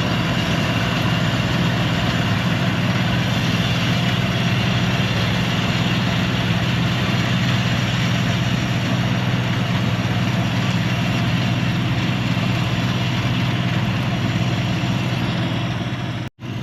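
Combine harvester running steadily while harvesting wheat: a constant low engine drone under a dense, even machinery noise, cutting out abruptly for an instant near the end.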